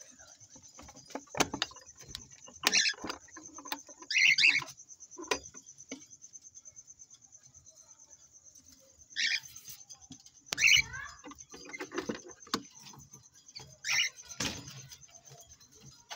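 Caged finches chirping, short calls every second or two, with light clicks and rustles of the birds moving about the cage and a faint steady high-pitched trill underneath.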